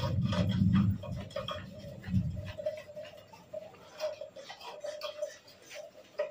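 Close-miked chewing of a mouthful of instant noodles: wet smacks and mouth clicks come irregularly throughout. A low closed-mouth 'mmm' sounds in the first second.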